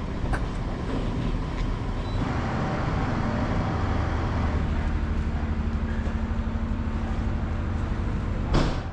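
Heavy engines running with a steady low rumble, with a single sharp knock near the end.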